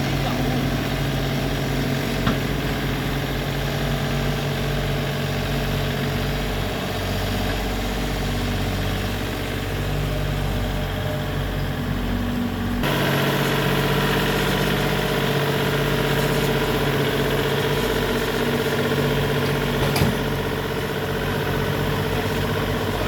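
Engine of a backhoe or tractor running steadily at a low, even speed. Its note shifts abruptly about halfway through. There are two short knocks, one near the start and one near the end.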